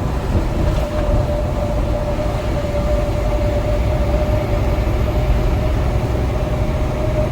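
Semi truck driving on the road, heard from inside the cab: a steady engine drone and road rumble with a thin steady whine over it.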